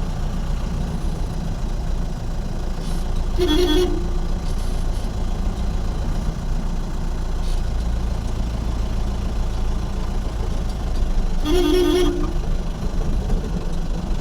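Vehicle engine and road noise as a low, steady rumble, with a two-tone vehicle horn sounded briefly twice, about three seconds in and again near the end.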